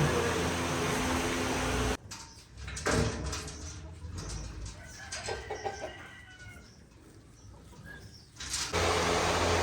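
Short, soft farm-animal calls and a few knocks, heard between two stretches of steady mechanical hum that cut off suddenly about two seconds in and come back near the end.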